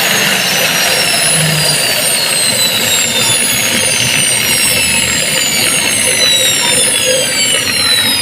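Electric grinder motor with a newly fitted armature, running with a high whine and hiss; the whine falls steadily in pitch throughout as the motor slows.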